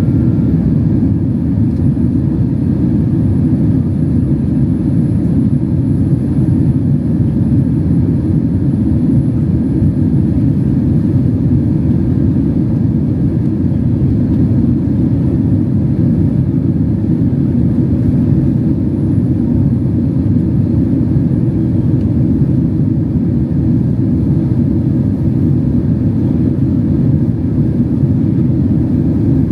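Cabin noise inside an ANA Boeing 767-300 in flight: a steady, loud low rumble of the jet engines and rushing air that does not change.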